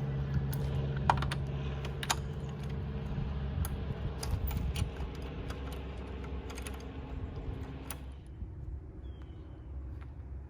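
Irregular sharp clicks and taps over a steady low mechanical hum; the clicking stops about eight seconds in and the hum goes on.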